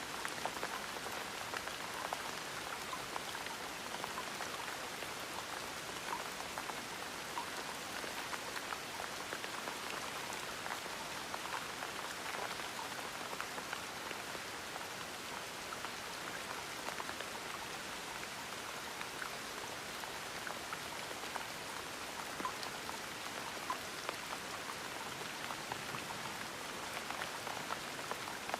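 Gentle steady rain falling on a surface, a continuous patter with many small individual drops ticking through it.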